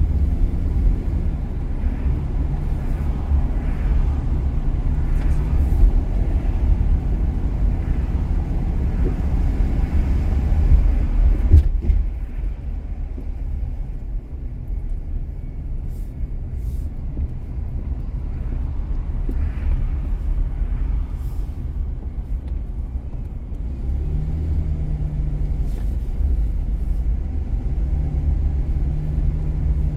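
A car driving on city streets: a steady low rumble of engine and tyre noise with a faint hum that fades out and comes back. A single sharp knock about twelve seconds in, after which the rumble eases a little.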